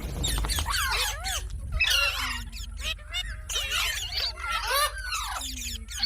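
Parrot chattering: a rapid run of short, squeaky calls sliding up and down in pitch.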